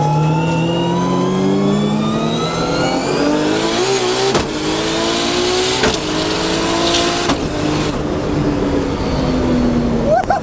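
Nissan Skyline GT-R engine accelerating hard, heard from inside the cabin. Its pitch climbs through about three quick upshifts of its newly fitted automatic gearbox, then falls away over the last couple of seconds as the car eases off.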